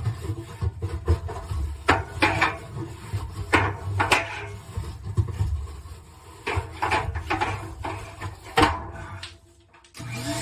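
Irregular knocks, clatters and scraping of tools and parts being handled while something is worked loose from a dryer vent, with one louder knock about two-thirds of the way through.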